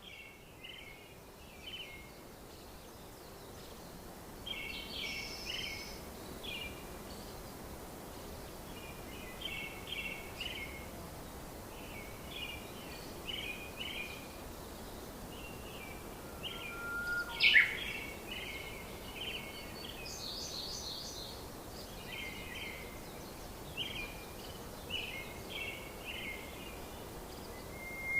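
Birds calling outdoors in short, repeated runs of chirps over a steady background hiss, with one louder, sharper call about two-thirds of the way through.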